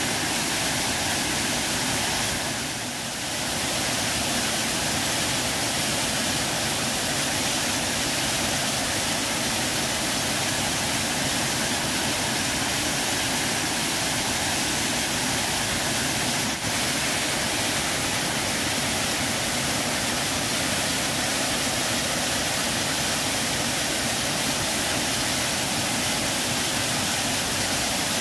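Waterfall pouring steadily, a dense, even rush of falling water, with a brief drop in level about three seconds in.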